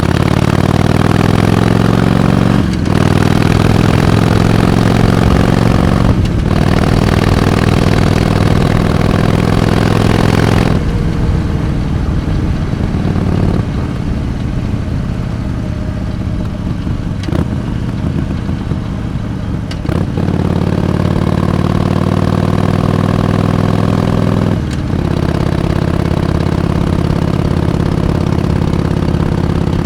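Harley-Davidson Iron 883's air-cooled 883 cc V-twin engine under way, pulling up through the gears with short breaks for shifts about 3 and 6 seconds in. The throttle closes about 11 seconds in and the engine runs quieter off the throttle, then pulls again about 20 seconds in, shifts once more near 25 seconds and settles to a steady cruise.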